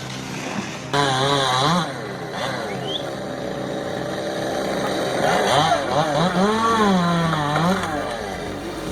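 Chainsaw engine running, its pitch rising and falling again and again as it revs up and drops back. It gets louder about a second in.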